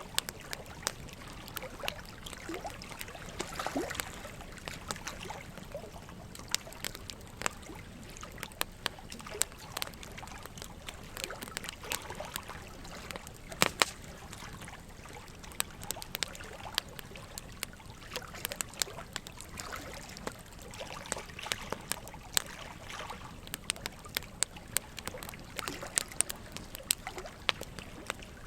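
Burning logs crackling with frequent, irregular sharp pops, the loudest about fourteen seconds in, over a steady trickle of running water.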